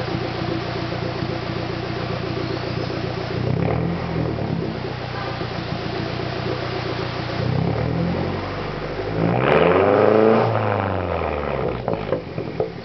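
2007 Mazdaspeed 6's turbocharged 2.3-litre four-cylinder idling through a 3-inch exhaust with no resonator or muffler. It is blipped briefly about three and a half seconds in, then revved higher from about eight seconds in, the pitch rising and falling back to idle. A few sharp clicks follow near the end.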